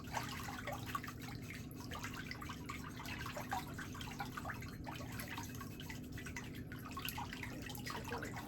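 Water dripping and splashing lightly in a pedicure foot basin, in many small irregular drops, over a steady low hum.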